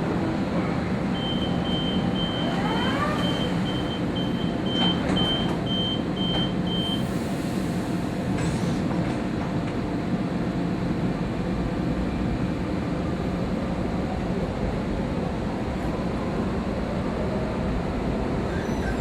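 Sydney electric suburban train departing: a high door-closing warning beep pulses about twice a second for several seconds, with a brief rising whine as it starts to move, over the train's steady rumble.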